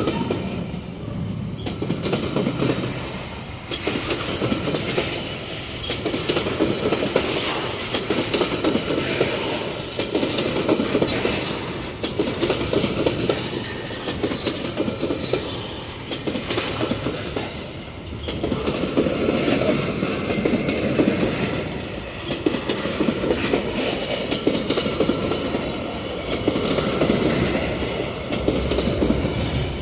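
Freight train wagons rolling past, steel wheels clicking over the rail joints. The sound swells and fades every couple of seconds as each car goes by.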